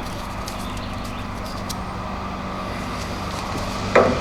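Steady low hum and hiss of background room noise, with a few faint ticks.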